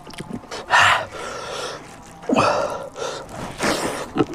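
A man gasping and hissing air sharply through his mouth three times, a reaction to the burning heat of king chilli (bhut jolokia).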